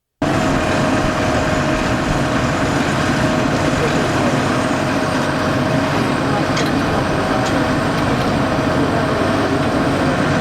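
Helicopter running steadily, a loud dense mechanical noise with a constant mid-pitched tone through it, starting abruptly after a brief dropout at a tape edit.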